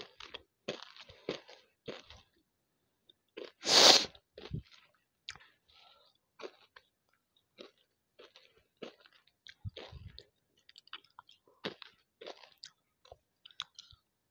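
Crisp crunching and chewing of banslochan (tabasheer, the chalky silica lumps from bamboo) right at an earphone microphone, in many short sharp crunches. One much louder rush of noise comes about four seconds in.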